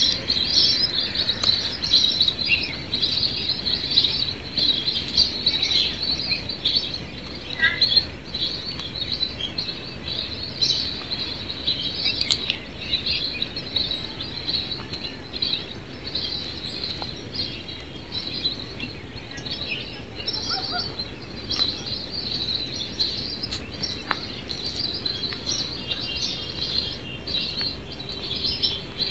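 A dense chorus of many birds chirping and calling at once, steady throughout, with an occasional separate wavering call standing out.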